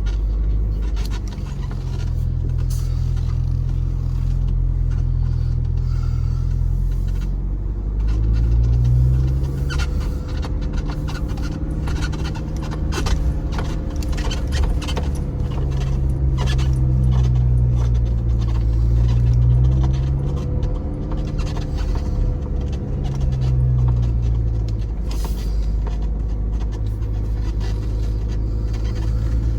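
2025 Chevy Colorado ZR2's 2.7-litre turbo four-cylinder engine running at low speed while driving, its revs rising and falling several times through the middle stretch, with scattered knocks and rattles from the truck over uneven ground.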